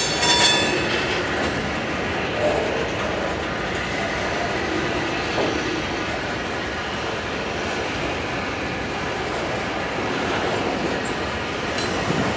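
Freight train rolling steadily by on the rails, its wheels making a steady rumble; a high-pitched wheel squeal dies away within the first second.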